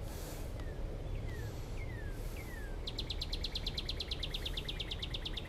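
A bird singing: four clear downslurred whistles, then a fast trill of about ten notes a second starting about halfway through, over a steady low outdoor hiss.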